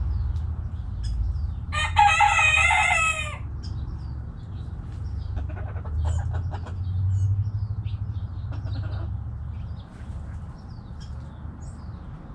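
A rooster crows once about two seconds in, the loudest sound. Hens cluck at intervals, small birds chirp, and a steady low rumble runs underneath.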